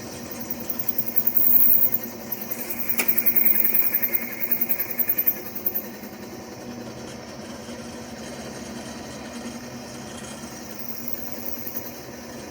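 Drill press running while a machine drill bit bores into 3/8-inch-thick steel. It is louder and rougher in the first half, with a sharp metallic ping about three seconds in, then settles into a steady running sound.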